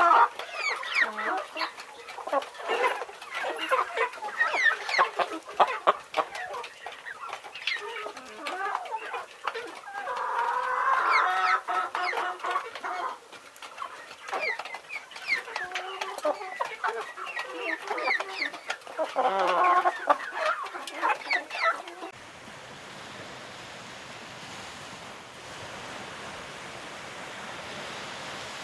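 A flock of chickens clucking, many short overlapping calls at once. About three-quarters of the way through it cuts off suddenly to a steady rushing noise.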